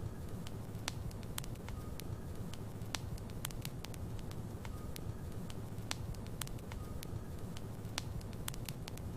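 Logs burning in a fireplace: sharp, irregular crackles and pops, several a second, over a steady low rumble of the fire.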